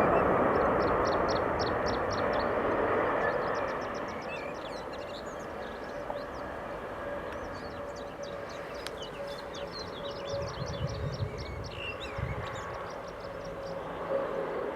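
Aircraft engine noise fading away over the first few seconds. Small birds then chirp and trill in quick runs of high notes, over a faint steady hum.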